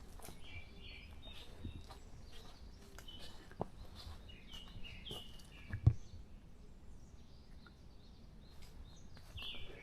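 Wild songbirds chirping faintly in woodland, with scattered short high notes. A couple of sharp clicks stand out, the loudest about six seconds in.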